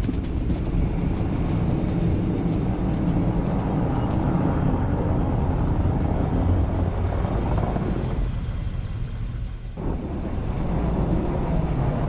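Car engine running with a steady low rumble, heard from inside the cabin, easing briefly just before the end.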